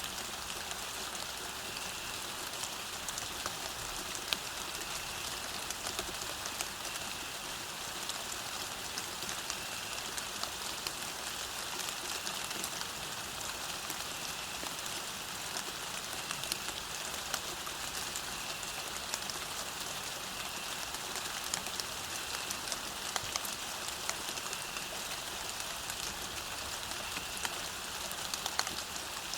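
Steady rain falling on a path: an even hiss dense with small drop ticks.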